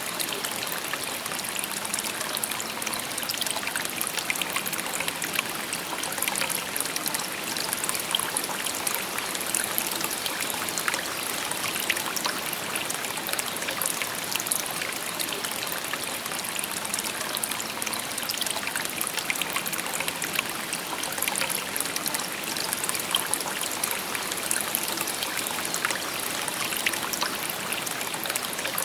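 Shallow river babbling over stones: a steady rush of flowing water full of small splashes and trickles.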